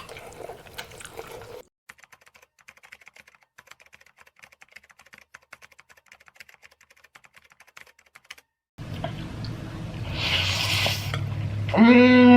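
Close-miked eating sounds: a dense run of fine, crackly wet clicks of chewing, then a short hiss. Near the end a person gives a drawn-out voiced sound held at one pitch for over a second.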